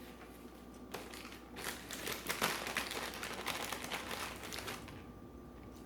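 Takeout packaging crinkling and rustling as it is handled: a run of dense crackles starting about a second in and dying away near the end.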